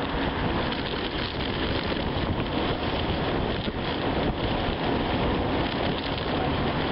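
Steady rushing road and wind noise from a car on the move, with no clear engine note.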